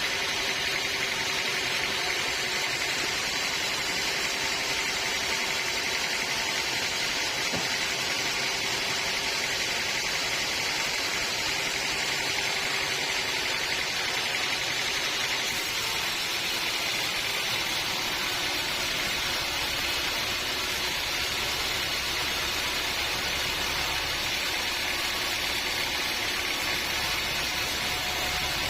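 Band sawmill running steadily through a log, an even machine hiss with no pauses; the sound shifts slightly about halfway through.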